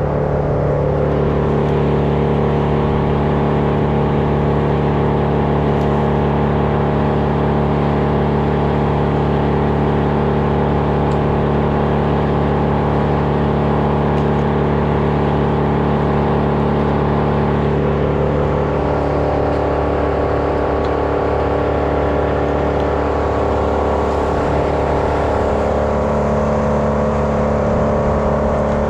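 An engine running steadily at an even pitch throughout, changing only slightly in the second half.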